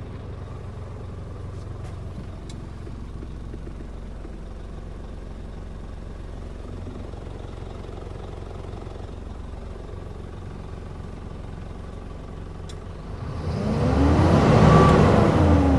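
Isuzu Giga truck's diesel engine idling steadily, then revved about thirteen seconds in, the pitch rising and falling back. A second rev starts near the end.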